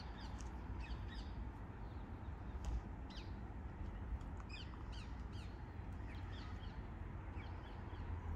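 Small birds chirping in the canal-side bushes, many short, quick falling notes one after another, over a steady low rumble.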